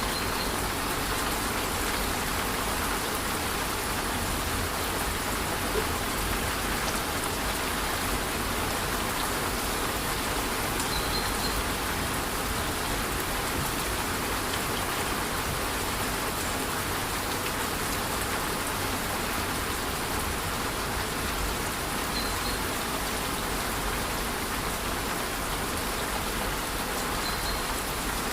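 Steady rushing of a waterfall mixed with light rain, an even, unbroken wash of water noise. Four brief, faint high chirps come through it.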